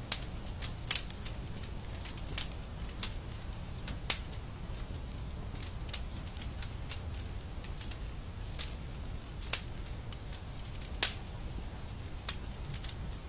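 Wood fire crackling: irregular sharp pops and snaps, a few louder ones, over a steady low rumble of the burning fire.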